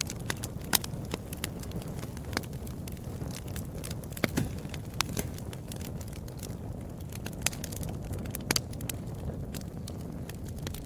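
Wood fire burning in a fireplace: a steady low rumble of flames with irregular crackles and sharp pops, a few of them louder snaps.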